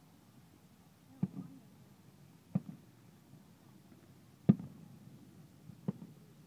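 Four distant firework bangs at uneven intervals, each followed by a short echo, the third the loudest.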